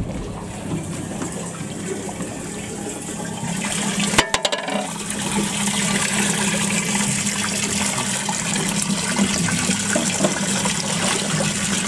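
Water gushing from a hose nozzle into a boat's live well holding crayfish, splashing steadily; it grows louder about three and a half seconds in, with a few sharp clicks around four seconds. A steady low hum runs underneath.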